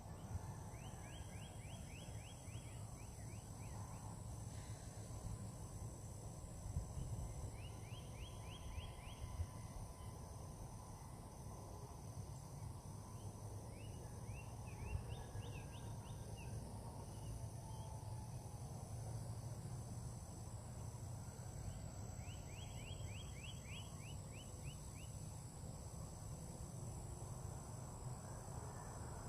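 A bird calling in short bursts of rapid, clipped notes, about four bursts in all, each lasting a second or so. Under them runs a steady high-pitched buzz of insects and a low background rumble.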